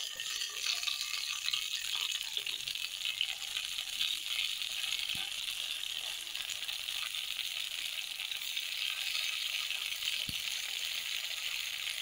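Halved, slit brinjals sizzling in hot oil in a steel kadai as they are laid in one by one: a steady high hiss with a few faint taps of the pieces against the pan.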